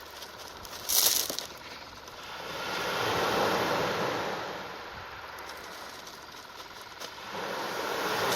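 Sea waves washing in: a rush of noise that swells and fades twice, with a short sharp rustle about a second in.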